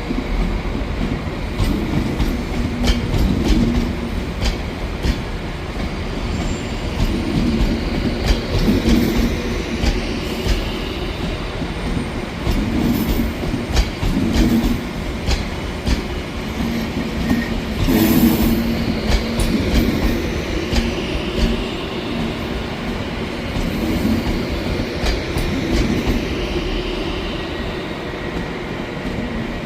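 A train running along the rails, a steady rumble with the wheels clicking over rail joints and one louder sharp clatter about two-thirds of the way through.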